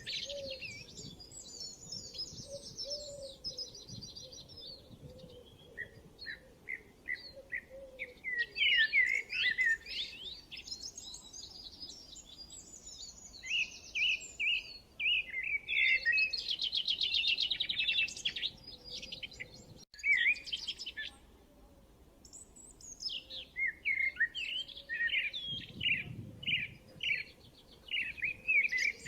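Several songbirds singing and chirping over one another in quick, high notes and rapid trills, with a brief break about two-thirds of the way through.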